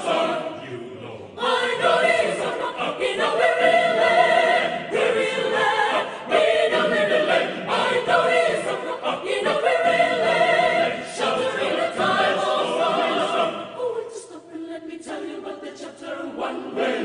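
Mixed adult choir singing in full chords, in phrases with short breaths between them, dropping softer a little before the end.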